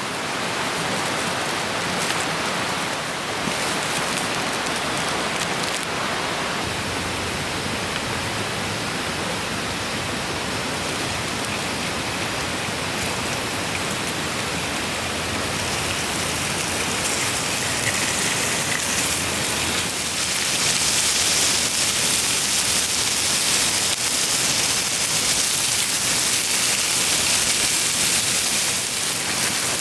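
Steady rushing of a clear stream, a constant hiss of water. About twenty seconds in, a brighter hissing grows over it.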